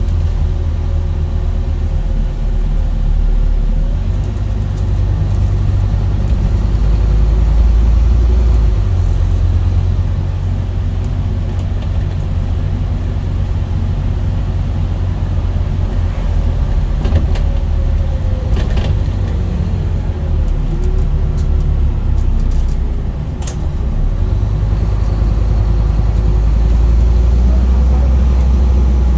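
Scania N230UD double-decker bus's diesel engine running as the bus drives: a deep, steady rumble with the engine's pitch gliding up and down, and a few short clicks or knocks about two-thirds of the way through.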